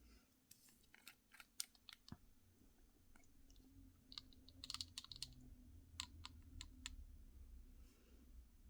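Faint, scattered sharp clicks and taps of small hard objects being handled close up, bunched into a quick cluster around the middle, over a low steady hum.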